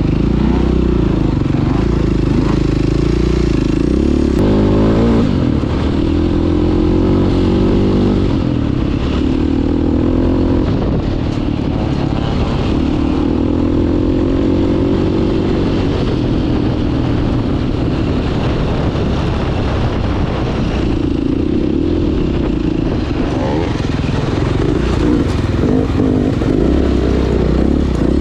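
Dirt bike engine, the 2009 KTM 530 EXC four-stroke single, running under load on a trail ride. Its pitch rises and falls again and again as the throttle opens and closes, with rattling and clatter.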